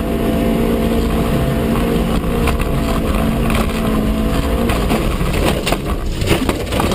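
A car engine running hard at steady revs with road and wind noise; the steady engine tone stops about four and a half seconds in, leaving rattling and repeated knocks.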